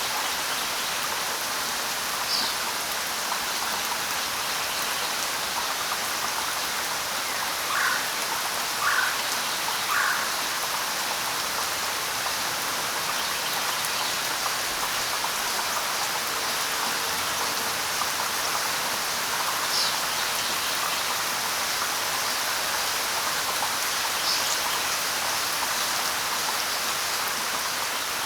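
Steady light rain pattering on leaves, with a few brief high bird chirps scattered through it. Three short, louder calls about a second apart come near the middle.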